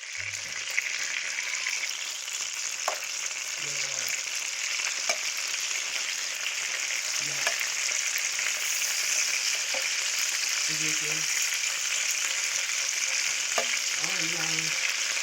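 Chicken frying in hot oil in a pan: a steady sizzle with a few sharp spattering pops.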